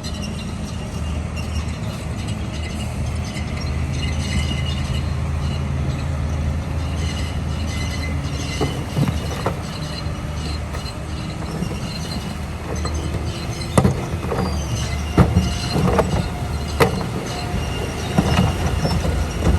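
Komatsu D41P crawler bulldozer's diesel engine running steadily under load, with its steel tracks squealing and clanking. Several sharp metal clanks come in the second half.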